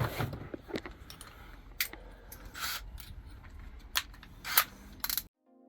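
Scattered clicks and light metallic knocks of tools and drill bits being handled, with a couple of short scraping bursts; the sound cuts off suddenly near the end.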